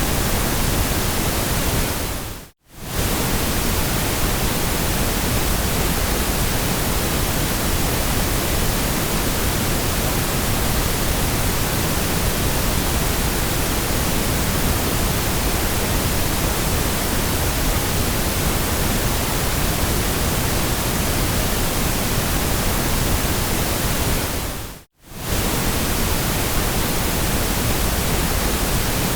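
Steady, even hiss of generated noise, the kind sold as white noise for sleep. It briefly fades out to silence and straight back in twice, about two and a half seconds in and again about twenty-five seconds in.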